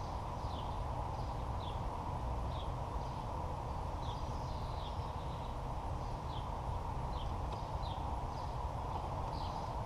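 Outdoor background ambience: a steady hiss of noise with a small bird chirping again and again, short high notes about once a second.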